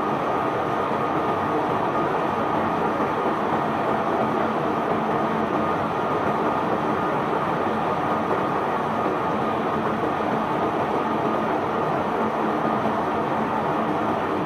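Steady, dense mechanical rumble of a barge's bulk cargo being unloaded: loose material pouring and flowing with unloading machinery running, a thin steady whine on top.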